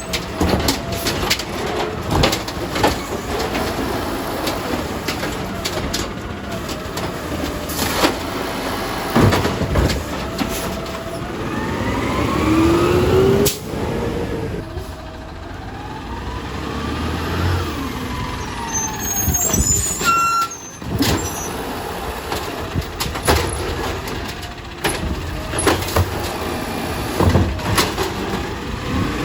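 Garbage trucks working a collection route: diesel engine running and revving, with rising whines, sharp clanks and knocks, and hisses of air brakes.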